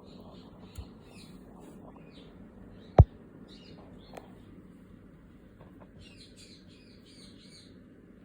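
Small birds chirping repeatedly in the background over a low steady hum. One sharp click about three seconds in and a couple of fainter clicks come from small hard parts being handled.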